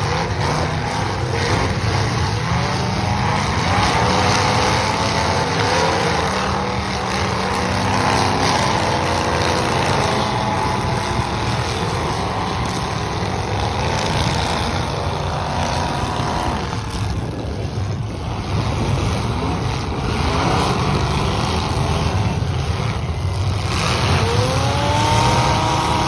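Demolition derby cars' engines revving hard, several at once, their pitch climbing and falling again and again as the cars accelerate and back off across the dirt arena.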